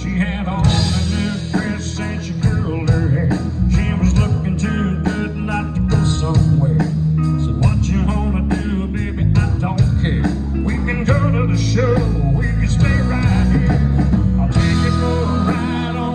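Country-rock band playing a cover song: electric guitar over bass and a steady drum beat, growing fuller and brighter near the end.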